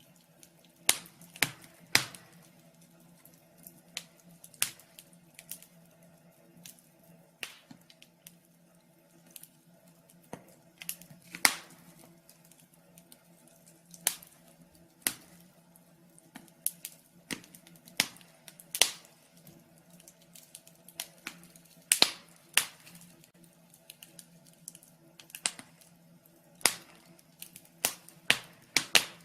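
Wood fire crackling in a fireplace: irregular sharp pops and snaps, a few of them loud, over a faint steady low hum.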